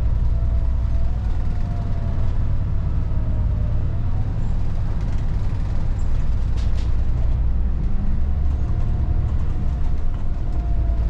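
Volvo 8900 city bus's diesel engine running under way, heard from inside the bus as a steady deep rumble. A faint whine that shifts a little in pitch comes in about a second in and again about eight seconds in.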